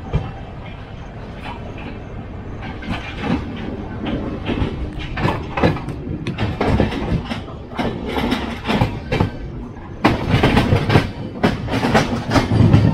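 Moving Duronto Express train heard from an open coach doorway: a steady rush with the wheels clattering over rail joints and points, the knocks coming thicker as it goes. It turns suddenly louder about ten seconds in.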